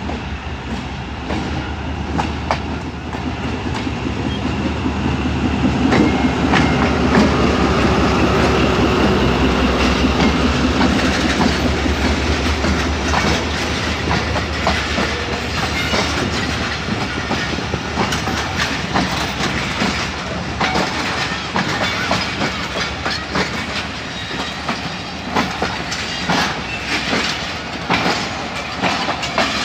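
Pakistan Railways diesel locomotive and its passenger train passing close by: the locomotive's engine grows louder and peaks as it goes past, then the coaches roll by with a steady clickety-clack of wheels over the rail joints.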